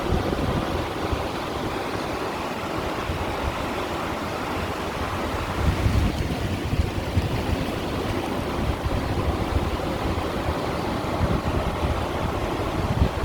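Small sea waves washing and breaking against shore stones, a steady wash with a few louder surges.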